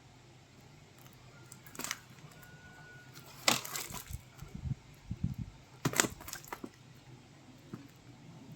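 Handling noise from unboxing a smartphone's box and packaging: sharp crackles about two seconds in, a louder burst in the middle and another near six seconds, with soft knocks between.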